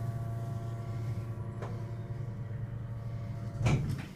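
Hydraulic passenger elevator's machinery humming steadily inside the car, with a knock near the end after which the hum drops away.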